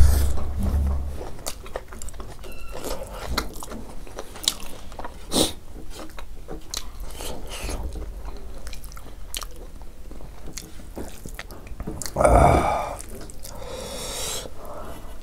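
Close-miked chewing and wet mouth sounds of a person eating rice with dal and greens by hand, with many small clicks and squelches. A dull low thump comes right at the start, and a short breathy noise about twelve seconds in.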